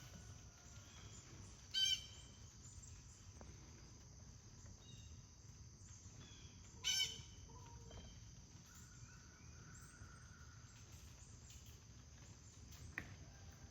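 Outdoor birds calling: two short, harsh calls, about two seconds and seven seconds in, with a few faint chirps between them, over a steady high-pitched insect drone.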